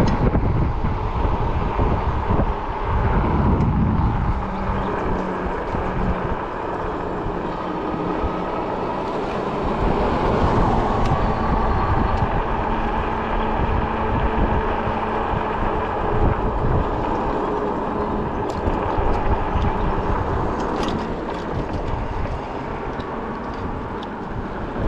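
Wind buffeting the microphone while riding a fat-tire e-bike, with a steady hum underneath.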